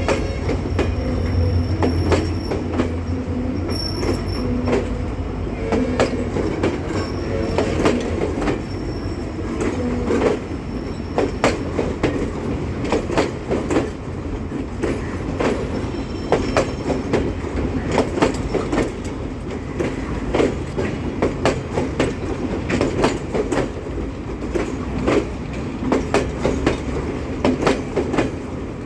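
Railway train running on the track: a steady low rumble with wheels clattering over rail joints. Thin wheel squeals sound in the first half.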